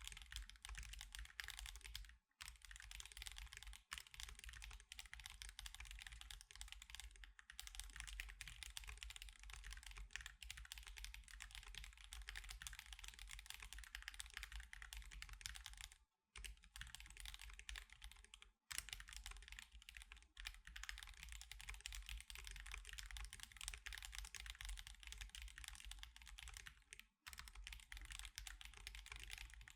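Fast, steady typing on an Akko Alice Pro mechanical keyboard with Akko CS Crystal switches and osumekeys Sakura + Mochi keycaps: a continuous stream of key clicks, broken by brief pauses about two seconds in, twice around the middle, and near the end.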